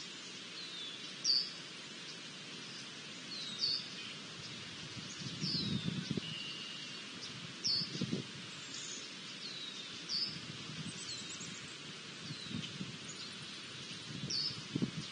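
Wild birds calling outdoors: short, high, hooked call notes every two or three seconds over a steady background hiss.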